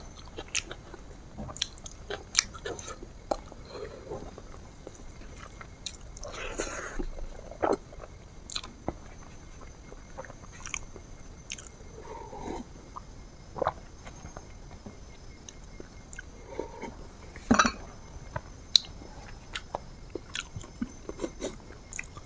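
A person chewing and eating food close to the microphone, with many short, irregular crunches and mouth clicks and a few louder ones.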